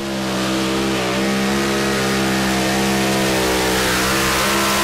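Two-wheel-drive pulling tractor's engine held at full throttle during a pull, a loud steady note that builds slightly in the first second and then holds.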